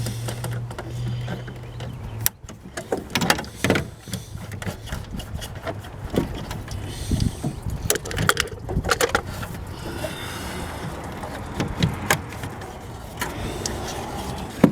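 Hand tools and hoses being worked loose from their hose clamps: irregular metallic clicks, knocks and scrapes. A low steady hum runs underneath until it cuts off about two seconds in.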